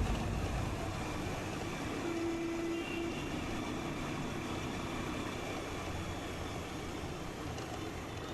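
Steady road noise of a motorcycle ride through city traffic: a low rumble of engine and tyres with an even hiss, and a brief steady tone about two seconds in.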